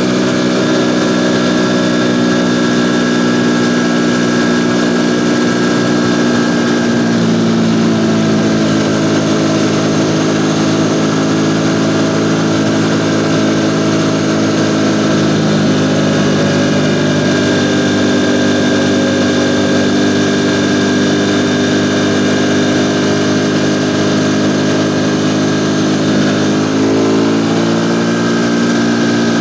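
Ducati Panigale V4's V4 engine running under way, a loud, steady note with a haze of road and wind noise over it. The pitch rises about a quarter of the way in and again near the end.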